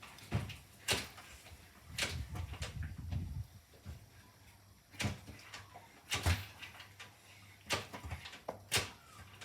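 Thumpster 125 motorbike being kick-started without success: a series of sharp clunks from the kick-start, with a short low rumble about two seconds in as the engine turns over, and no steady running.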